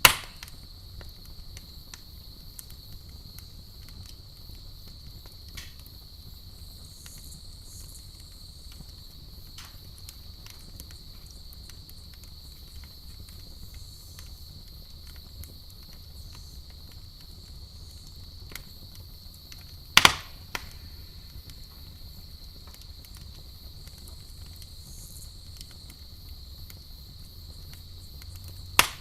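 Campfire crackling: many faint small pops throughout and three loud, sharp pops, one right at the start, one about two-thirds through and one just before the end, over a steady high-pitched hum and a low rumble.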